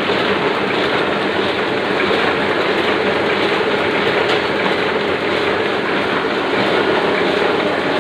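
Oliver 6 printing press running at a steady pace, a continuous fast mechanical clatter with a steady hum underneath: the press in normal running.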